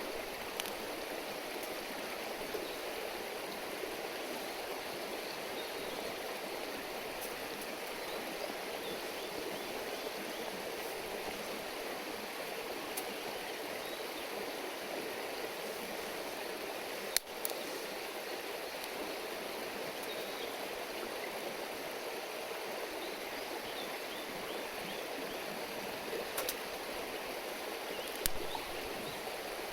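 River water flowing and murmuring steadily, with a few sharp clicks scattered through it; the loudest is about halfway through.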